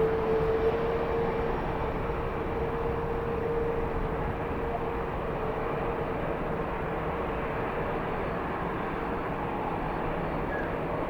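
Steady rush of strong wind and distant jet airliner engine noise, with a steady hum that fades out about two seconds in.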